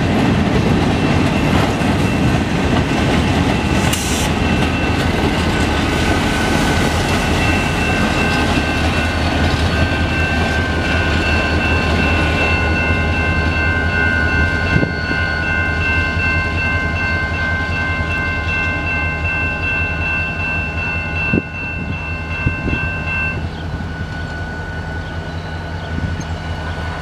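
Freight cars rolling past with wheels clicking over the rail joints, over the low rumble of the EMD SD40-2 diesel-electric locomotive shoving the train. Several steady high ringing tones sound over it and stop about 23 seconds in.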